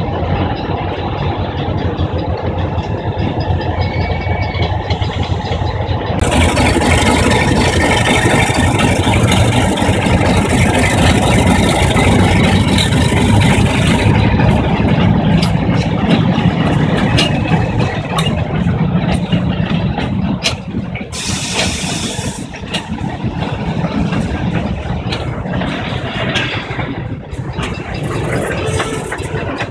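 Diesel locomotives, Trillium Railway 1842 leading 110 and 1859 coupled behind, with their engines running as the train moves along. The sound gets louder and brighter about six seconds in, with a run of sharp clicks through the second half.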